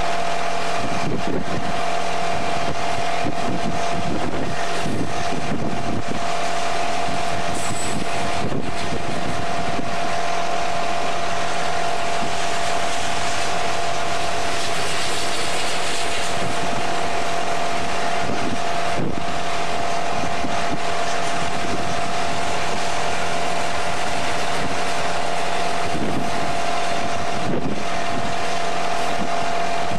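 Freight train of autorack cars rolling past: steady rolling noise from the wheels on the rails with scattered clicks and clanks, and a steady whine over it.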